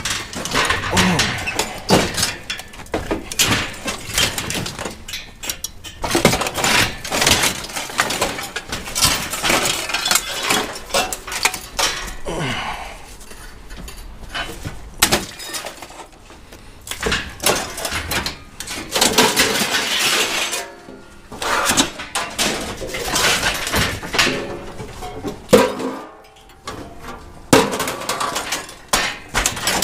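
Scrap metal being tossed and dropped onto a pile: a long, irregular run of clanks and crashes, with a quieter stretch a little before halfway.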